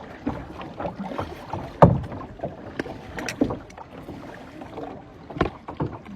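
Kayak paddles dipping and splashing in calm water, with sharp knocks at irregular intervals; the loudest comes about two seconds in.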